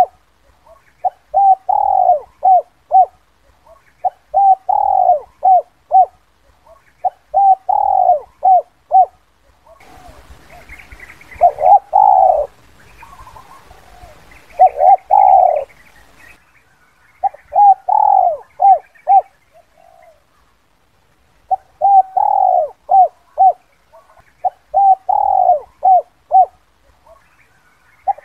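Spotted dove cooing: a phrase of three or four low, falling coo notes repeated over and over, about every one and a half seconds. For a few seconds near the middle the coos are fewer, with a light hiss and some higher chirps.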